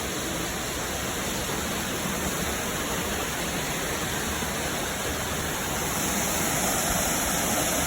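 Waterfall pouring onto rocks into a fast-flowing creek: a steady rushing of water. It grows slightly louder about six seconds in.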